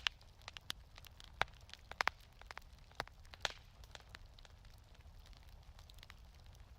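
Wood fire crackling in a fireplace: irregular sharp pops and snaps, most of them in the first three and a half seconds, over a faint low rumble.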